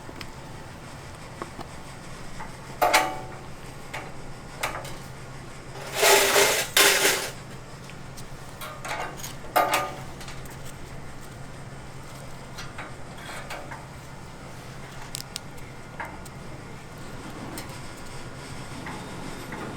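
Kitchen clatter: dishes, pans and utensils knocked and set down a few times, loudest around six to seven seconds in, over the steady hum of kitchen ventilation.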